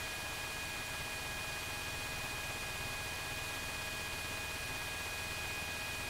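UH-60 Black Hawk helicopter noise heard through the crew intercom: a steady hiss with a constant high whine over it.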